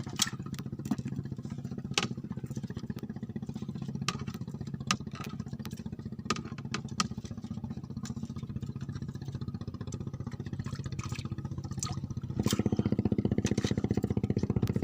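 A small engine running steadily, with a few sharp clicks and knocks over it. About twelve seconds in it speeds up and gets louder.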